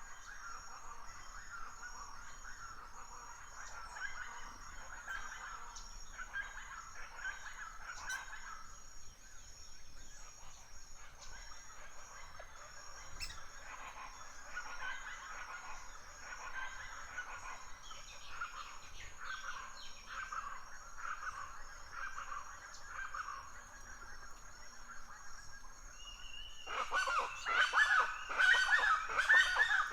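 Birds calling in a forest: many short, repeated chattering calls over a steady high-pitched hum. Near the end a much louder, busier run of calls breaks in.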